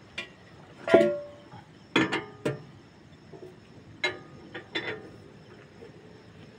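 Irregular sharp metallic clinks and knocks, about seven of them, each ringing briefly, of metal tools and parts being handled and set down.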